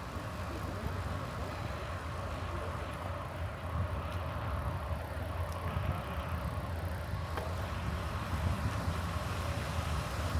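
Steady low rumble of a bicycle ride: tyre and wind noise, with no distinct events.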